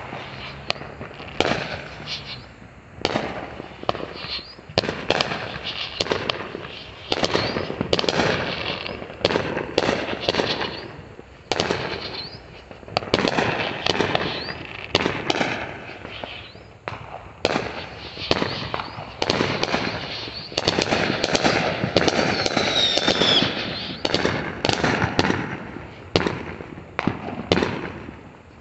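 Amateur aerial fireworks going off in quick succession: an irregular, continuous run of sharp bangs and crackling bursts, often overlapping. A faint wavering whistle comes about twenty-two seconds in.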